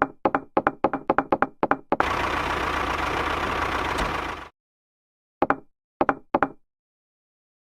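A quick run of sharp knocks, about five a second, then a steady rushing mechanical noise with a low hum for about two and a half seconds, then three more separate knocks.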